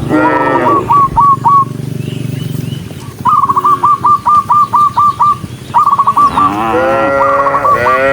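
Cattle mooing, with long drawn calls near the start and twice close together near the end. Between the calls comes a rapid run of short high chirps, about five a second.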